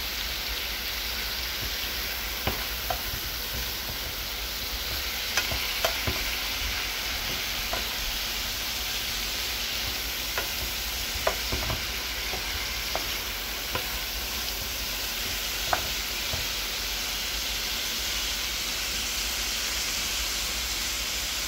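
Beef liver, onion and tomato sizzling steadily in a frying pan, with scattered knocks and scrapes of a spatula stirring them that stop about three-quarters of the way through.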